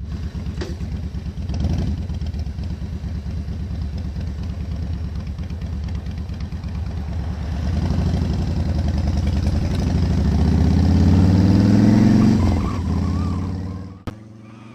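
Motorcycle engine running, then accelerating with a rising pitch for several seconds before backing off sharply and cutting off near the end.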